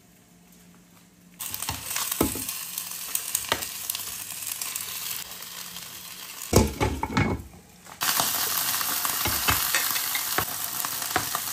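Chicken legs sizzling in hot oil in a frying pan, with knocks of metal kitchen tongs against the pan as the pieces are turned. The sizzle starts suddenly about a second and a half in, there is a heavier clatter around the middle, and after a brief dip the sizzling comes back louder.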